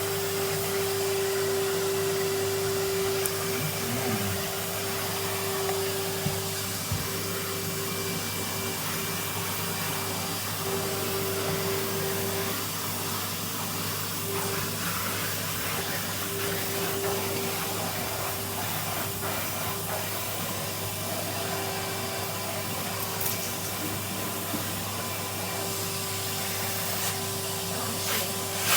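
Vacuum cleaner running steadily with a brush attachment, dusting, its motor giving a steady whine that wavers in strength over an even rushing of air.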